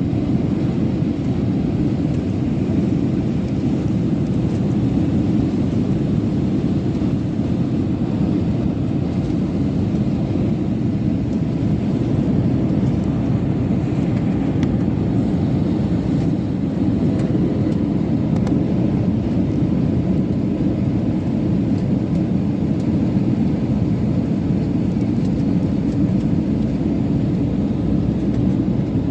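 Steady low rumble of an airliner in flight, heard inside the passenger cabin: engine and airflow noise holding even throughout.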